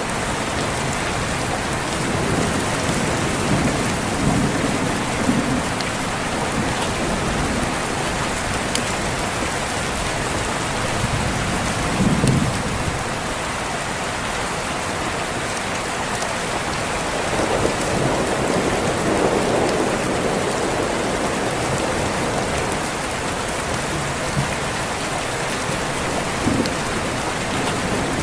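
Steady heavy rain with thunder rumbling low several times: a long roll a few seconds in, a short heavier clap near the middle, and another long roll later on.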